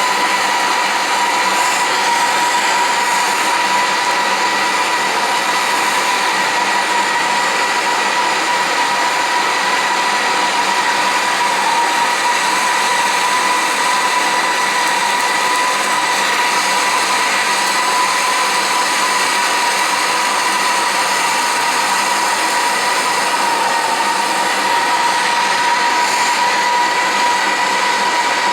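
Handheld gas torch flame hissing steadily with a faint steady whistle, heating a copper pipe solder joint that still has water in the pipe, so the joint will not get hot enough to take solder.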